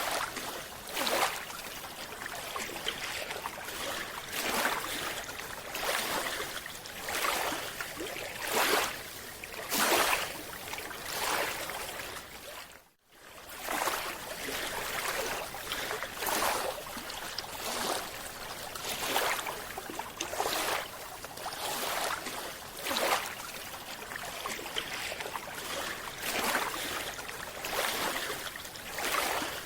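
Water noise swelling and ebbing in repeated surges, about one every one to two seconds, with a brief drop-out about halfway through.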